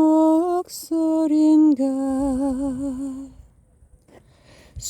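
A person singing a slow Korean song unaccompanied. A held note ends about half a second in, and a sung line with wavering vibrato follows. The voice then stops for a pause of about a second and a half.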